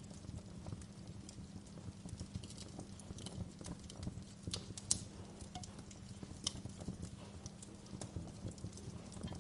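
Fire crackling: a steady low rumble of flames with frequent small irregular crackles and a few sharper pops, the loudest just before the middle.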